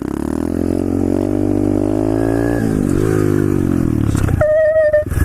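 125cc SSR pit bike's single-cylinder four-stroke engine revving up under throttle. It dips briefly about halfway through and climbs again during a bonk-to-wheelie. Near the end the engine gives way to a short, steady, high tone.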